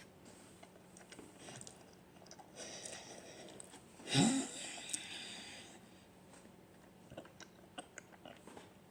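A person chewing noodles, with small wet mouth clicks. About four seconds in comes a louder breathy, hissing sound with a short rising vocal tone.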